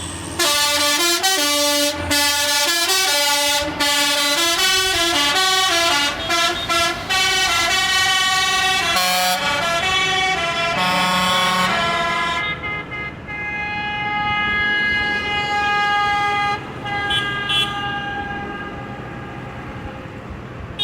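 A vehicle's musical horn playing a tune of quick stepping notes, followed from about twelve seconds in by steadier held horn tones over running engine noise.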